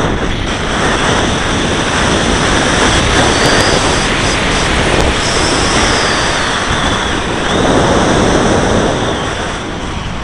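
Airflow rushing over the microphone of a camera carried aboard a flying radio-controlled model plane, with the model's motor running beneath it as a faint high whine. The rush swells louder twice, in the middle and again near the end.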